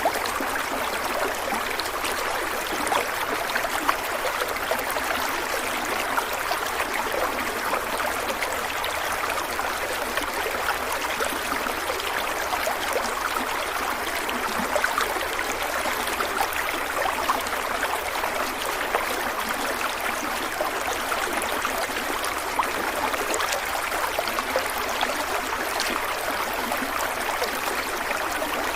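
Stream water running and trickling steadily, a continuous rushing with small splashes and gurgles.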